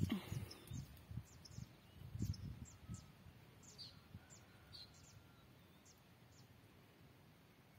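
A small bird calling a series of short, high chirps that slide downward, about two a second, ending after about six seconds. Low thumps on the microphone during the first few seconds.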